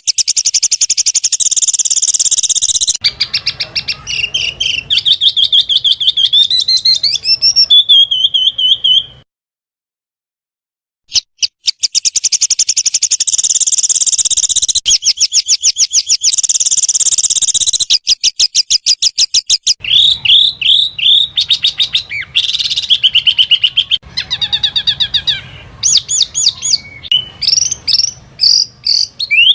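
Small songbirds singing in rapid, high, fast-repeated chirps and trills, with a few rising sweeps. The song stops for about two seconds of silence partway through, then resumes with a different series of rapid chirps.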